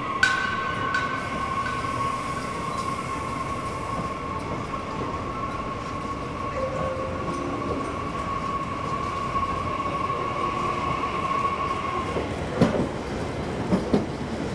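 French TER regional train moving slowly through the station, with a steady high-pitched squeal over the running rumble that stops about twelve seconds in. A sharp click comes just after the start, and a few sharp knocks near the end.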